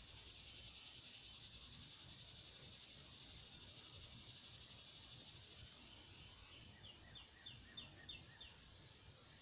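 Faint outdoor ambience: a steady high insect buzz that fades out about six seconds in, then a bird calls a quick series of about six short, slightly falling notes.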